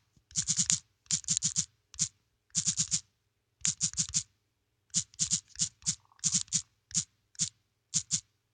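Typing on a computer keyboard: loud, close keystrokes in quick runs of two to five with short pauses between them.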